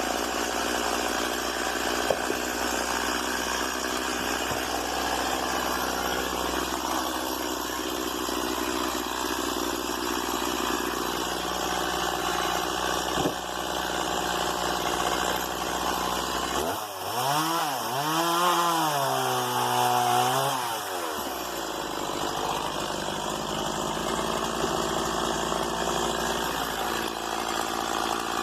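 Stihl MS 170 two-stroke chainsaw running steadily, revved up and back down once about two-thirds of the way through.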